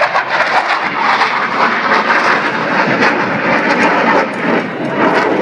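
Fixed-wing aircraft engine running loud and steady as a display aircraft flies overhead.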